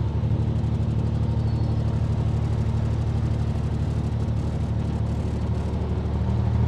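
Narrowboat's diesel engine running steadily at eased-off revs with an even throb, picking up again right at the end.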